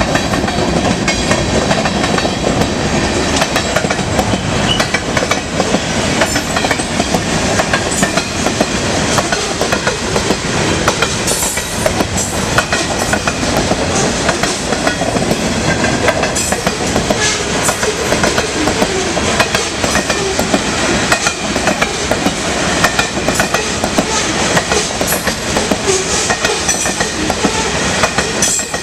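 Freight train cars rolling through a grade crossing: a steady loud rumble and rattle, with wheels clicking over rail joints and the crossing.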